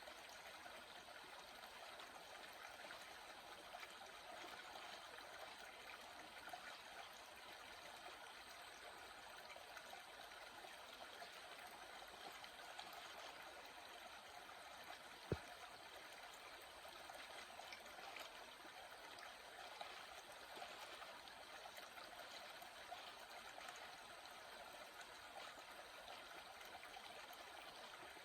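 A small water stream running steadily, faint and even throughout. A single sharp click sounds about halfway through.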